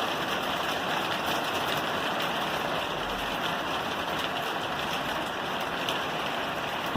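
Steady rain falling on a roof, an even hiss of many drops with faint ticks.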